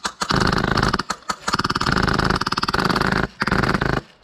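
Airsoft M249 light machine gun running on a Polarstar HPA engine, firing full-auto in several long bursts of rapid, even shots with brief breaks, the longest lasting nearly two seconds.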